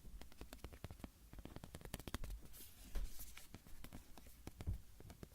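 Quick, irregular light taps and clicks on a small hand-held object, several a second, close to the microphone.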